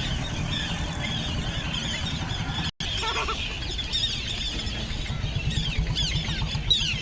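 A flock of birds calling over one another in many short, falling squeals, over a steady low rumble. The sound cuts out briefly a little before the middle.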